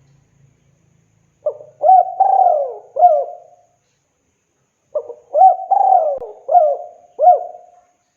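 Spotted dove (tekukur) cooing: two phrases, each a short note followed by three or four rising-and-falling coos, about a second and a half apart. This is the male's loud advertising call to a female.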